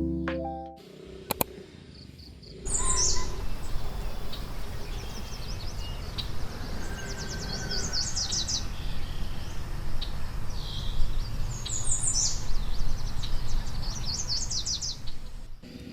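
Small birds singing outdoors, several times over, in high, rapid strings of short notes against a steady low outdoor rumble.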